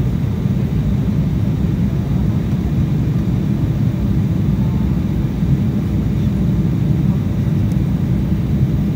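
Steady low rumble inside the cabin of an Embraer E190 airliner in flight: engine and airflow noise with no distinct events.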